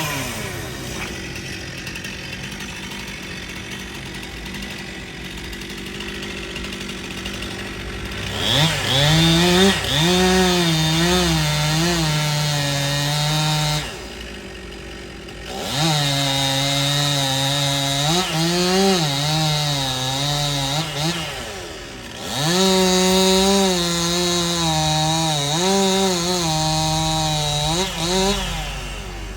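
Stihl two-stroke chainsaw idling, then run up to full throttle three times for about five or six seconds each. Its pitch wavers under load and it drops back to idle between runs.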